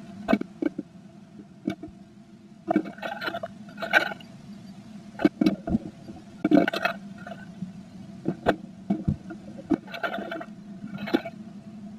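Blue tit scratching, tapping and shuffling nest material inside a wooden nest box: irregular knocks and short scratchy rustles every second or so, over a steady low hum.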